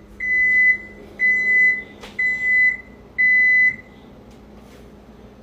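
An electronic beeper sounding four steady, high beeps, each about half a second long and one a second, that stop near the end. There is a sharp click about halfway through.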